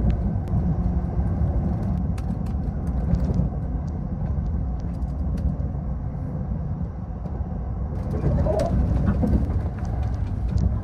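Limited express Azusa train running at speed, heard from inside the passenger car: a steady low rumble with scattered light clicks.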